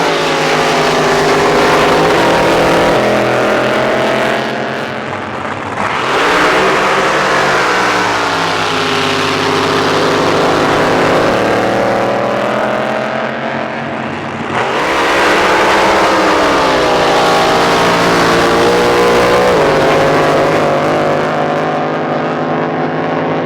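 Drag boat racing engines running loud, revving up sharply three times, each surge easing back down in pitch.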